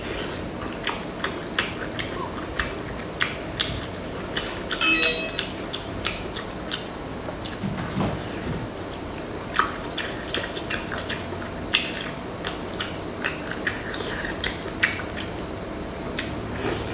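Close-miked chewing of skewered sea snails: irregular wet mouth clicks and smacks, with a brief squeak about five seconds in.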